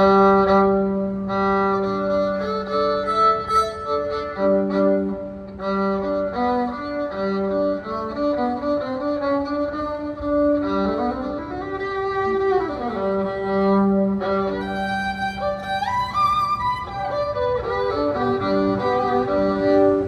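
Fiddle playing long held notes, often two at a time, with sliding pitch bends, in the middle and again near the end.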